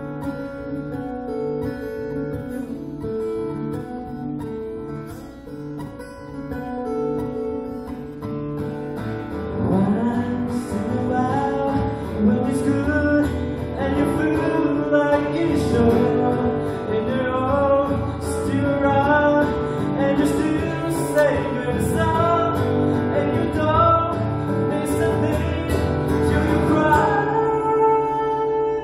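Acoustic guitar playing an instrumental break with plucked notes. It starts sparse, then grows fuller and louder about ten seconds in with a higher melody line, and ends on a ringing chord.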